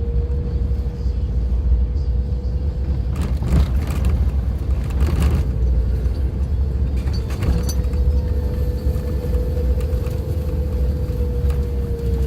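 Suzuki Jimny driving on an unpaved forest road: a steady low rumble with a constant whine from the drivetrain, and scattered clicks and knocks, a few seconds in and again later.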